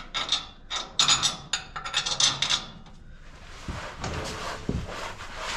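Metal bolts and washers clinking and rattling as they are handled and tried in bolt holes, a quick run of sharp clicks. About halfway through this gives way to a steady hiss with two soft thumps.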